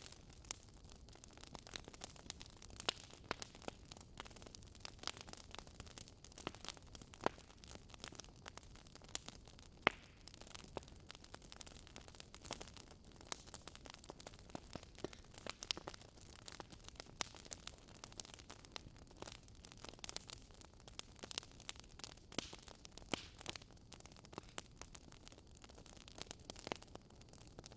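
Wood fire burning in a fireplace, crackling: irregular sharp snaps and pops, a few louder than the rest, over a soft hiss.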